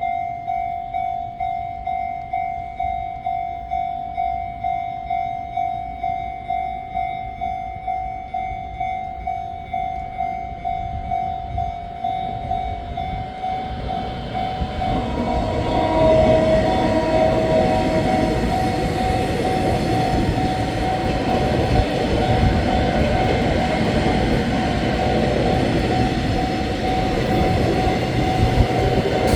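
Level-crossing warning bell ringing in a steady repeated ding, about two strokes a second. From about 15 s in, the local train reaches the crossing and passes, its wheels and running gear on the rails growing loud, with a brief horn sounding shortly after it arrives.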